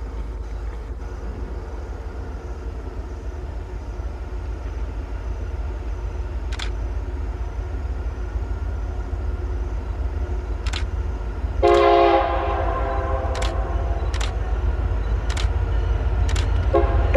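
Train approaching, its low rumble slowly growing louder, as the locomotive sounds a multi-note air horn. One loud blast comes a little past halfway and trails off, and another starts near the end. Sharp clicks sound every second or so in the second half.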